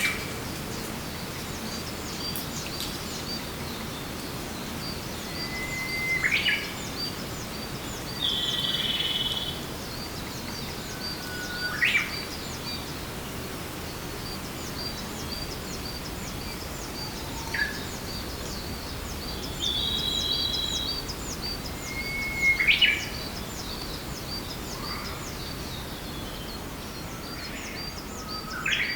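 Forest birds singing. One bird repeats its song about every five to six seconds, a held whistle ending in a quick sweeping flourish; twice another bird gives a buzzy note about a second long. Throughout there is a fast, even high-pitched ticking and a steady background hiss.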